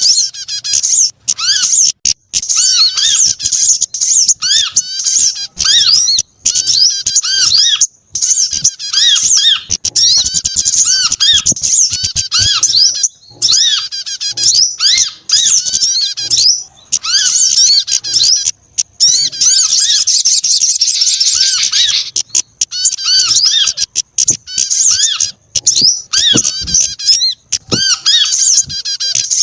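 A bird-lure track of small songbirds calling together in dense, high-pitched, rapid chirping. Short arched notes repeat over and over, with only brief gaps.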